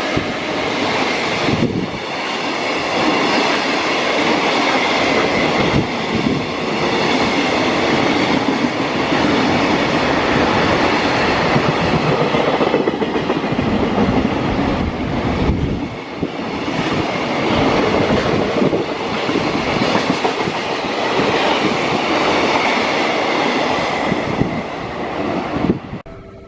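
Freight train passing close by, its wagons' wheels clattering over the rail joints in a long, steady run. The sound cuts off suddenly near the end.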